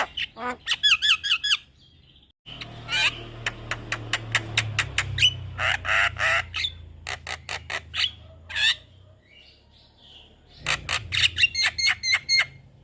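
Javan myna calling: rapid runs of sharp, repeated notes mixed with harsh squawks. The calls break off briefly about two seconds in and again near the end.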